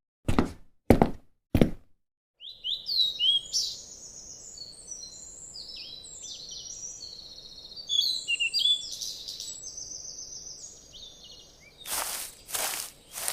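Three short knocks, then a stretch of many birds chirping over a faint steady background hum, then a few more short knocks near the end.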